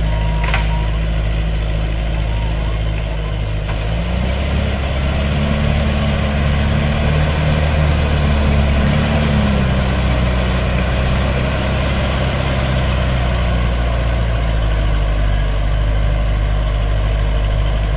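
Diesel engine of a heavy earthmoving machine running. About four seconds in it revs up under load, holds there for several seconds, then settles back to a lower, steady speed.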